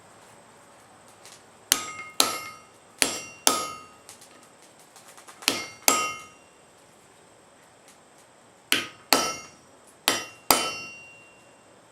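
Blacksmith's hammer striking hot wrought iron on the anvil: ten ringing blows in pairs about half a second apart, with short pauses between the pairs.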